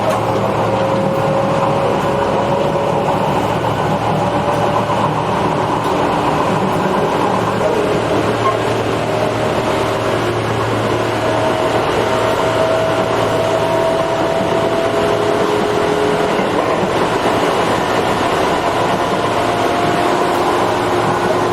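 Running sound inside a Tobu 8000 series electric train car between stations: steady wheel-on-rail rumble with a motor and gear whine that slowly rises in pitch as the train gains speed.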